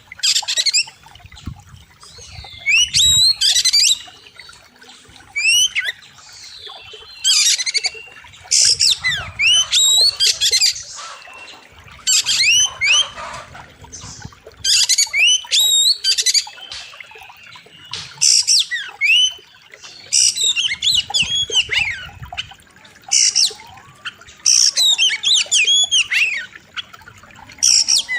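Oriental magpie-robin singing loud, sharp bursts of rapid whistled phrases with sliding notes, a new burst every second or two.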